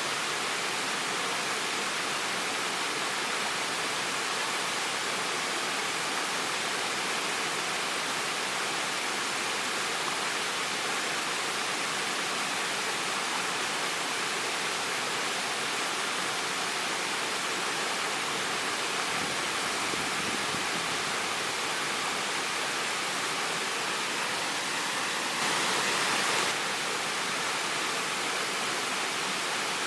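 Waterfall: water falling and splashing in a steady, even rush, swelling briefly a little louder near the end.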